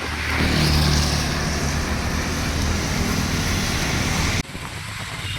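A motor vehicle's engine running close by over a steady rushing hiss, cut off abruptly about four seconds in and replaced by a quieter mix of the same hiss.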